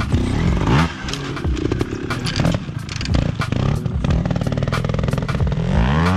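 Trials motorcycle engine blipped in short, sharp revs as the bike is worked over rocks, with two rising revs: one about half a second in and one near the end.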